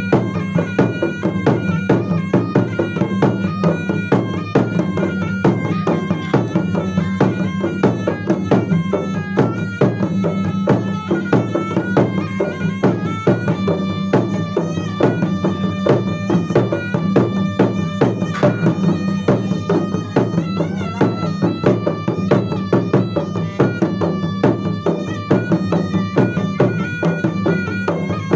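Gendang Maros ensemble: traditional Makassar drums beating dense, quick strokes under a wind instrument playing a stepping melody of held notes over a steady drone.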